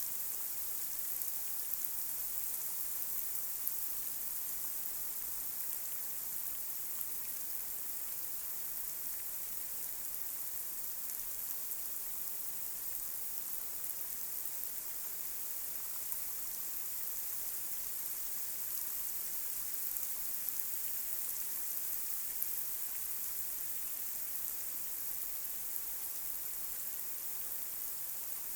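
Light rain falling on a street: a steady, even hiss with scattered drop ticks.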